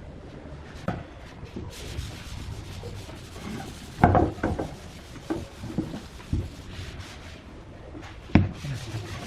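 Wooden parts knocking and rubbing against each other as pieces of a table are fitted together by hand, with a cluster of loud knocks about four seconds in, a few lighter knocks after it, and one sharp knock near the end.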